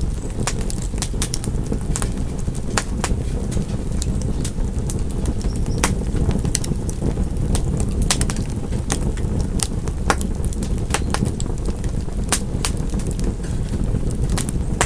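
Wood fire crackling and popping: many sharp, irregular pops over a steady low rumble of burning.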